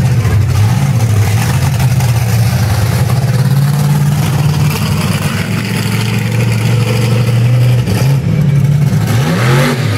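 A vehicle engine running with a steady low note, its pitch dipping and rising briefly near the end.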